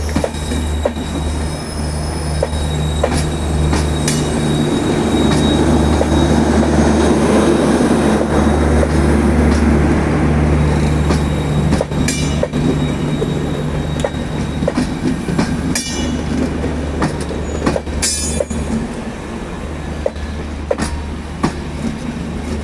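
Passenger train hauled by a WAP-4 electric locomotive running on the track: a steady low hum under rolling rail noise that swells to its loudest about eight seconds in and then eases, with scattered sharp clicks of wheels over rail joints.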